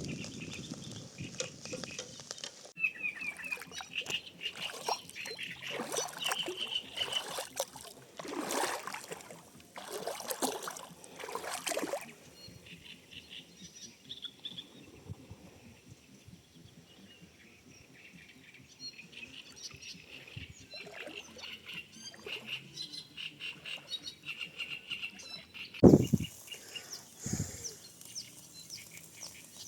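Small birds chirping and trilling, with scattered knocks and rustling, and a loud thump near the end.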